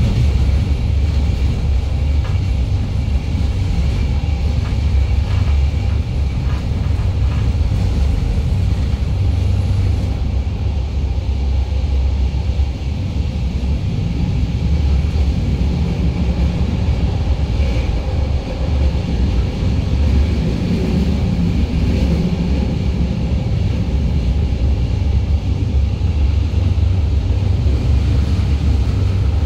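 Passenger train running along the line, heard from inside the carriage: a steady low rumble.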